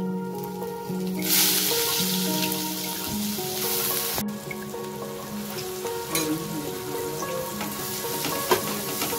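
Chopped onion and tomato frying in hot oil in a nonstick kadai, sizzling, much louder from about a second in. A wooden spatula stirs it. Soft background music plays throughout.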